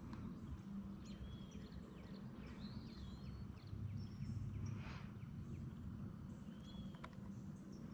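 Birds singing at dawn, several short chirps and whistles scattered through, faint over a steady low rumble.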